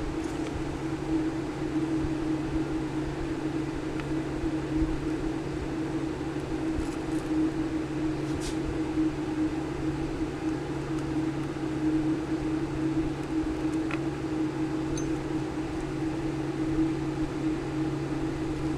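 A small motor running steadily, a low hum with an even hiss, with a few faint light ticks.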